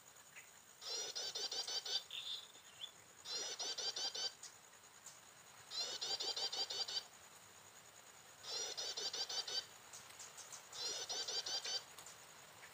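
Bar-winged prinia (ciblek) lure call: the same rapid chirping phrase, about a second long, repeated five times about every two and a half seconds. Its identical repeats mark a looped recording used to lure prinias to a trap. A steady high insect buzz runs underneath.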